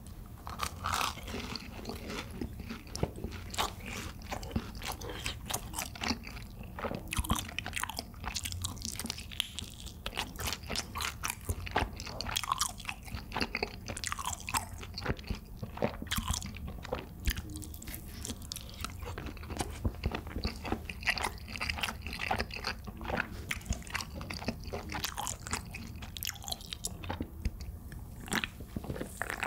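Close-miked eating: crisp crunchy bites and wet chewing of seasoned fried chicken and a sauced skewer, with rapid crackles all through.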